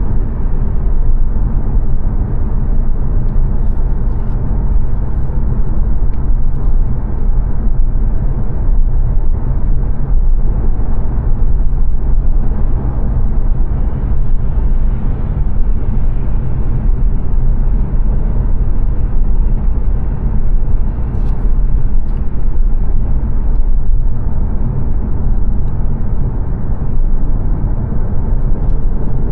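Cabin noise of a 2022 Mazda 3 saloon cruising on a motorway: a steady, loud rumble of tyres and road, with a few faint ticks.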